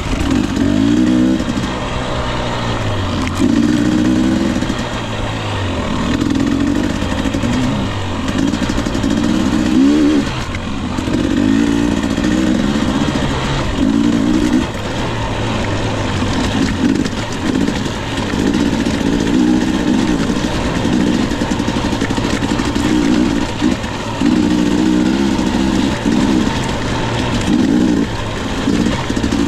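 Husqvarna TE 250i two-stroke fuel-injected single-cylinder dirt bike engine under way, its revs rising and falling again and again as the throttle is opened and closed in short bursts.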